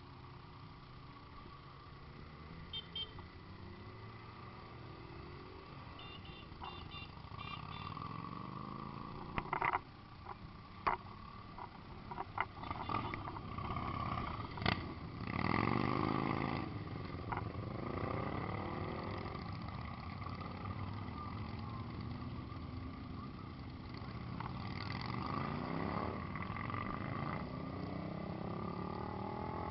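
Several motorcycle engines running together, idling and revving, their pitch rising and falling. The loudest rev comes about halfway through.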